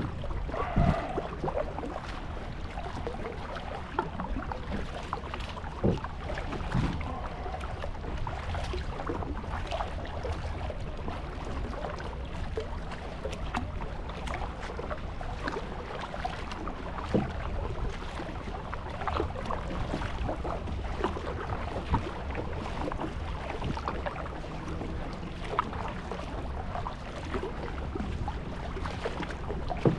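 Kayak being paddled on open water: irregular paddle splashes and water slapping against the hull, with wind rumbling on the microphone.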